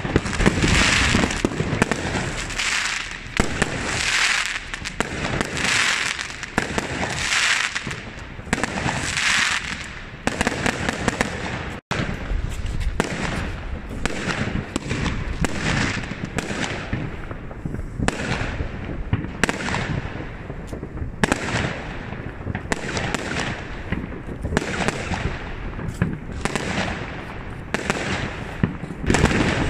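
Many fireworks going off at once: a continuous barrage of aerial shell bangs and crackling star bursts. The crackling comes in waves about every two seconds in the first ten seconds, and the sound cuts out for an instant about twelve seconds in.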